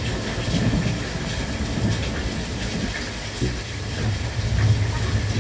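Cabin noise of a JR West Thunderbird limited express electric train under way: a steady low rumble of wheels on rails with scattered faint clicks.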